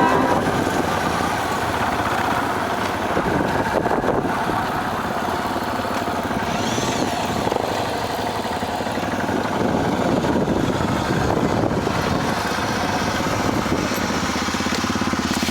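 A 250cc motorcycle engine running steadily while the bike is ridden, with a fairly constant level throughout.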